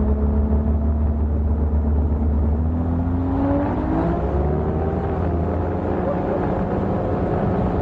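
Turbocharged 2JZ inline-six Supra heard from inside the cabin while driving: a steady low rumble with the engine note rising about three seconds in, then holding.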